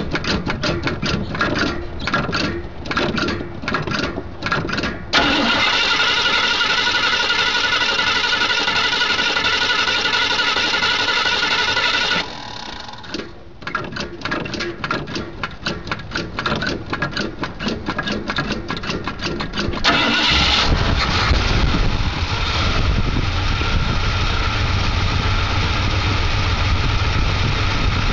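Ford 289 four-barrel V8 with Edelbrock headers being cold-started after sitting about a year and a half: the starter cranks it in rapid, even strokes, twice over. About twenty seconds in, the engine catches and settles into a deep, steady run.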